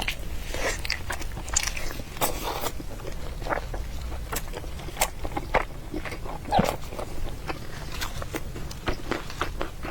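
Close-miked eating sounds: irregular wet clicks of biting and chewing food, with a few short, noisier smacks.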